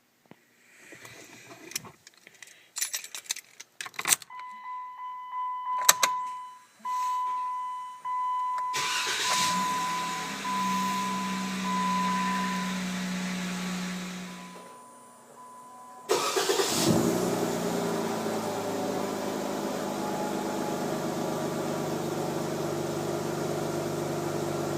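Cold start of a 2012 Jeep Wrangler's 3.6-liter Pentastar V6. Clicks and a dashboard chime beeping repeatedly come first, then a whooshing sound; the engine catches suddenly about 16 seconds in and settles into a steady idle.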